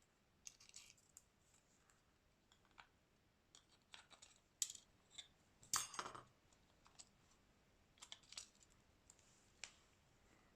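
Scattered small clicks, taps and short scrapes of hand tools working on a Xiaomi Redmi 9A phone during a screen replacement. A sharp click comes at about four and a half seconds, and a longer, louder scrape-and-clatter about six seconds in.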